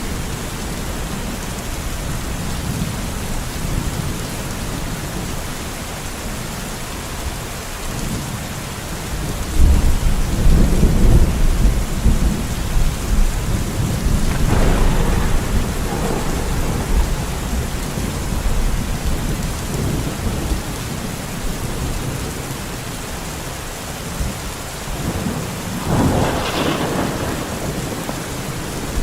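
Steady heavy rain falling in a forest, with a long roll of thunder rumbling low about a third of the way in, and further gusts or rumbles swelling twice later.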